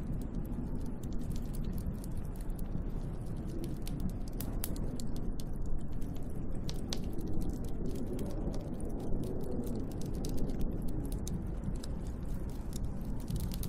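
Snowstorm wind blowing steadily, a low, even rush with no let-up, with irregular sharp ticks and clicks scattered through it.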